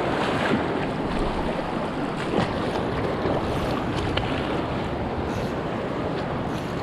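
Creek water rushing steadily, an even wash of flowing stream.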